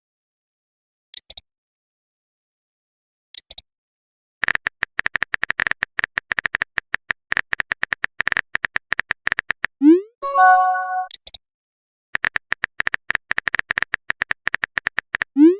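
Chat-app sound effects: two short high blips, then a rapid run of typing clicks for about five seconds, a quick rising swoosh and a chime as a message goes through, then another run of typing clicks ending in a rising swoosh.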